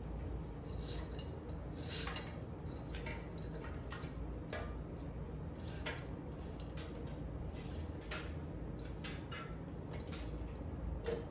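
Scattered light clicks and metallic clinks of hand tools and small parts being handled while a scooter is taken apart, over a steady low hum.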